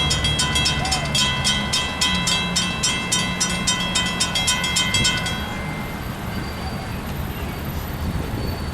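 Railroad grade-crossing bell ringing rapidly and evenly, about three and a half strikes a second, then stopping about five seconds in. A train's low rumble runs underneath.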